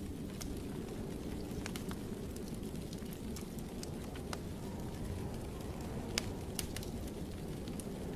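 Wood fire burning in a fireplace: a steady low rumble with scattered crackles and pops, the sharpest pop a little after six seconds in.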